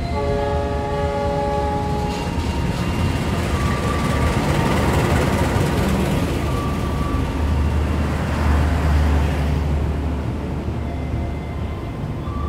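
A diesel locomotive's horn sounds a steady multi-note chord for about two seconds as the train comes in. The locomotive and its coaches then roll past close by with a rising rush of wheel and engine noise and a deep rumble that is strongest a few seconds from the end.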